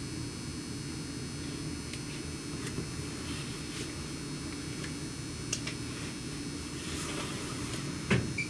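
Steady low hum of a stopped electric train's air conditioning and on-board equipment, heard from inside the Nagano Electric Railway 1000 series Yukemuri. A few faint clicks, and a short knock about eight seconds in.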